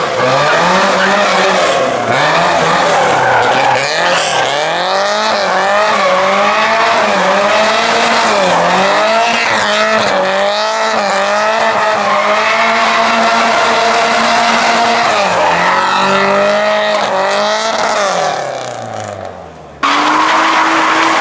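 A car's engine revving up and down in repeated waves while its tyres squeal and spin, as in a burnout or donuts. Near the end the revs fall away, then the sound cuts suddenly to a steady, even engine note.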